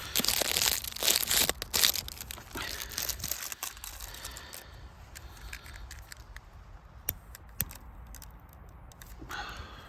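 Dry tinder being torn and crumpled by hand to start a fire: a dense crackling tear over the first couple of seconds, thinning to scattered small clicks and snaps.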